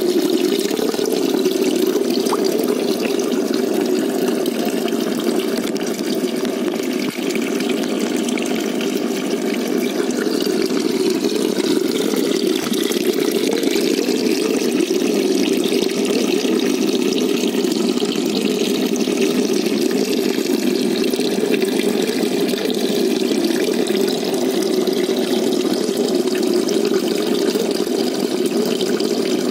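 Steady running water of a koi pond, an even rushing without a break.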